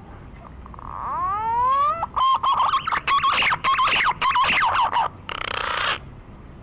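Green pigeon (punai) song played as a hunting lure call: a whistle rising in pitch about a second in, then a quick run of warbling whistled notes, and a short noisy burst near the end.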